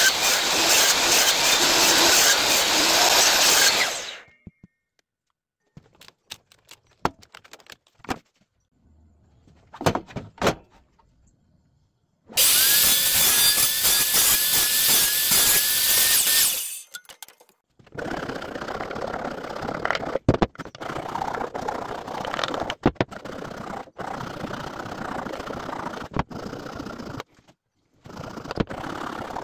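Woodworking tools cutting wood: two loud bursts of a power tool, the second with a wavering whine, separated by scattered knocks and clicks. After that comes a quieter, longer stretch of steady cutting with occasional knocks.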